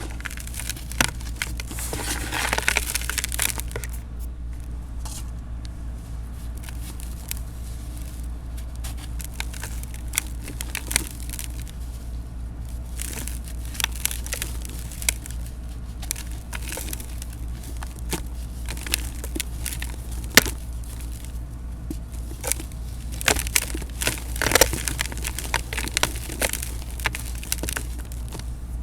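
Crunchy set cement, mixed with a little baking soda so that it crumbles, being crushed in a pot: irregular crunching and crackling, denser about two seconds in and again near the end. A steady low hum runs underneath.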